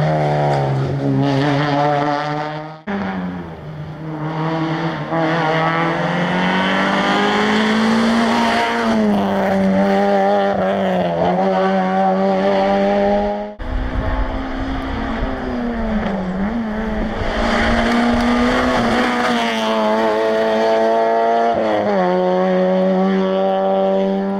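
Citroën Saxo rally car's four-cylinder engine running hard uphill, its pitch rising under acceleration and dipping as the driver lifts and shifts through the bends. The sound breaks off abruptly twice, about three and thirteen seconds in, and picks up again.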